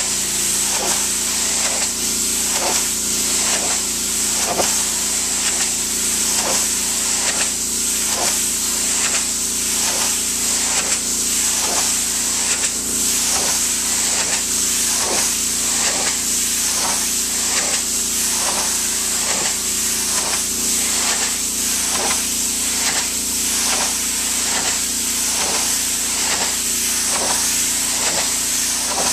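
Pressure washer spraying a high-pressure jet of water in a steady hiss, over the continuous drone of its motor and pump, with a regular pulse a little under twice a second.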